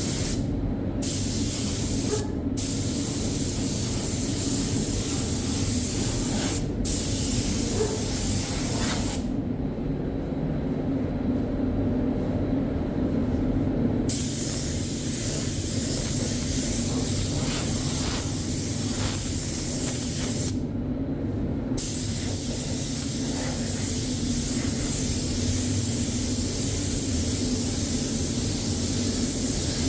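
Spray gun applying a weldable bodywork primer, a steady hiss that stops and restarts as the trigger is released and squeezed again, with a long pause about a third of the way in and a shorter one about two-thirds in. A steady low hum runs underneath throughout.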